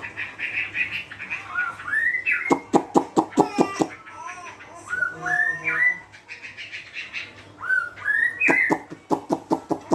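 Songbird calling: short rising whistled notes come in three groups, each followed by a quick run of sharp, rattling clicks, about a second in and again near the end.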